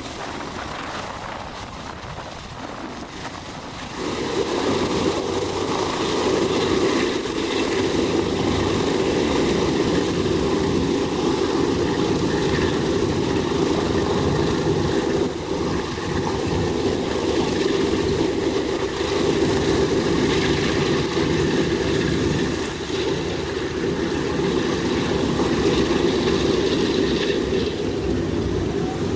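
Boeing B-17 Flying Fortress's Wright R-1820 nine-cylinder radial engines running steadily; about four seconds in the sound steps up louder and then holds steady.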